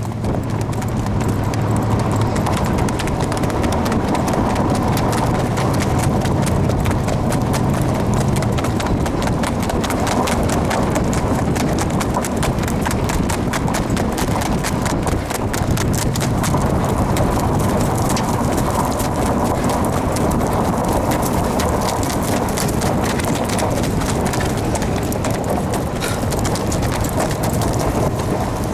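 Standardbred stallion's hooves striking the ground in a fast, steady run of hoofbeats, over a steady low rumble.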